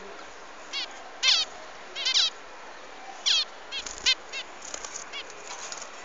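Small cage birds chirping: short, high calls of quick falling notes, repeated every half second to a second, from several birds.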